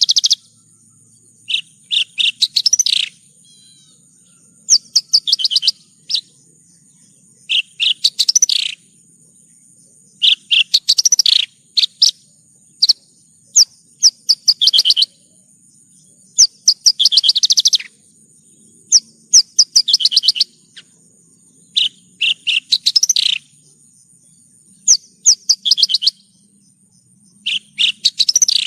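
Horsfield's bush lark (branjangan) singing in short phrases of rapid, high chirping notes, one phrase every two to three seconds. A thin, steady high tone runs underneath.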